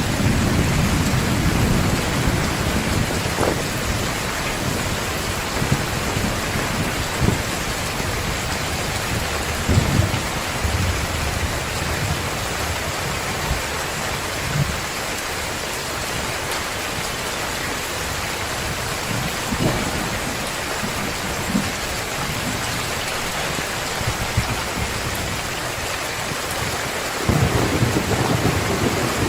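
Heavy rain falling steadily, with low thunder rumbling at the start and again near the end, and a few short low thumps between.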